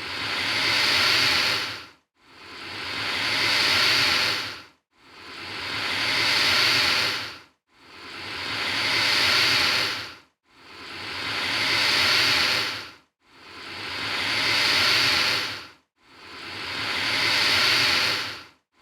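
Alligator hissing, repeated about every two and three-quarter seconds: each hiss swells louder and then cuts off abruptly, about seven times in a row, the same hiss looped.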